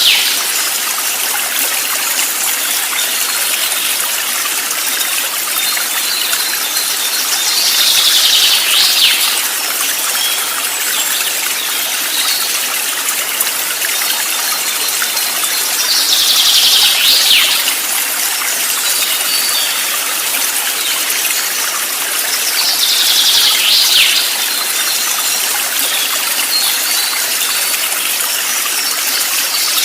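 Steady rushing of a flowing stream, with a high call that slides downward in pitch for about a second and a half, heard four times at even intervals of about seven to eight seconds.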